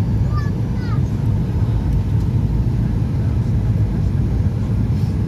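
Boeing 737 airliner's steady low rumble of engines and airflow during the landing approach.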